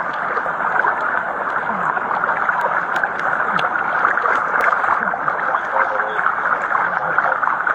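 Steady rush of heavy storm rain and floodwater, an even hiss with no break.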